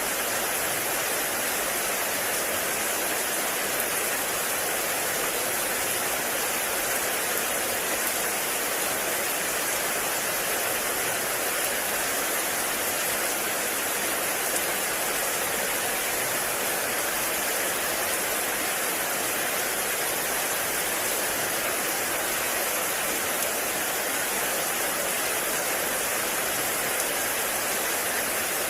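Heavy rain falling in a forest: a steady, even hiss that does not change.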